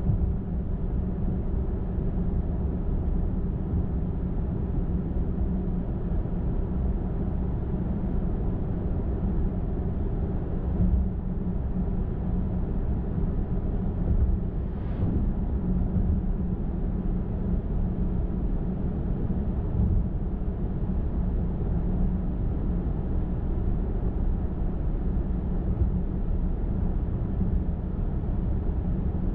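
Steady road noise of a car cruising on a highway, a low rumble of tyres and engine hum. About halfway through, a brief faint tone falls in pitch.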